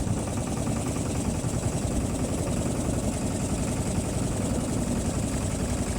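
Motorboat engine running steadily, a low, even drone, with a steady hiss over it.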